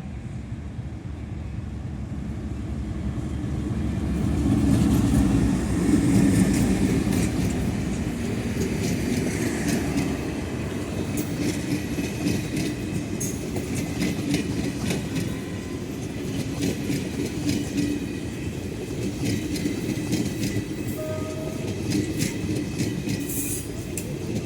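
A train hauled by a General Electric diesel locomotive passing, growing louder over the first five or six seconds and then holding steady, with the wheels clicking over the rail joints throughout.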